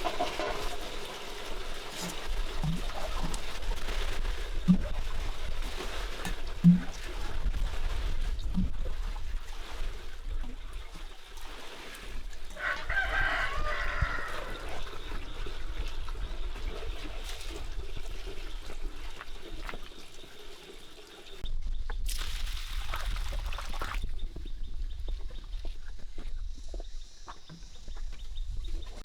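A rooster crows once, about two seconds long, near the middle, over a steady rural background with a few sharp knocks earlier on.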